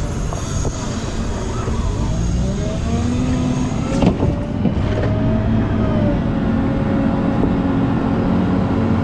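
Volvo L90H wheel loader's diesel engine running under load, its pitch rising and falling as the throttle changes. There is a sharp knock about four seconds in.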